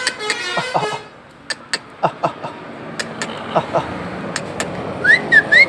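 Pet parrots calling: a harsh, ringing chatter in the first second, then scattered sharp clicks, and a few quick rising whistles near the end.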